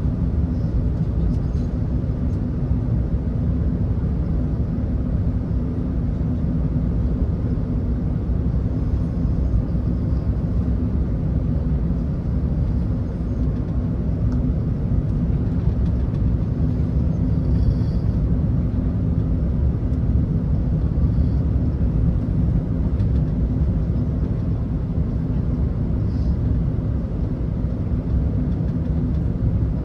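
Airbus A380 cabin noise heard from a passenger seat: a steady low rumble of engines and airflow with a faint constant hum, unchanging throughout.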